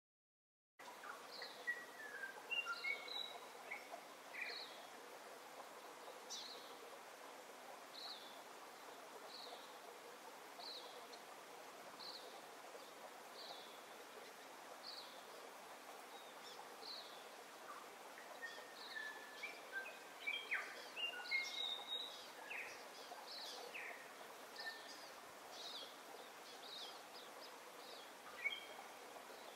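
Birds calling over a steady faint hiss of outdoor ambience, starting about a second in. One short high chirp repeats about once a second, and other, lower whistled calls join about two-thirds of the way through.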